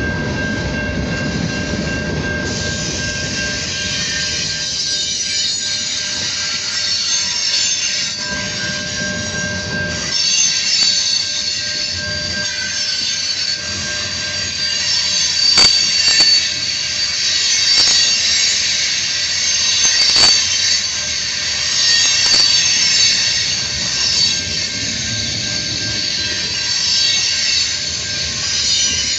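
Freight cars of a Norfolk Southern manifest train rolling past at close range, their steel wheels squealing high on the rails, with a few sharp clicks over the rail joints.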